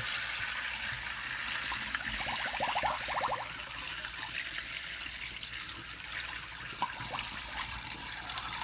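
Water with soaked wild bird seed being poured through a mesh strainer into a sink, a steady splashing trickle, with a short rising gurgle about two to three seconds in.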